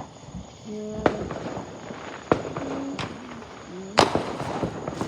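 Small fireworks going off with a series of sharp, irregularly spaced cracks, about four in all, the loudest a crackling cluster about four seconds in.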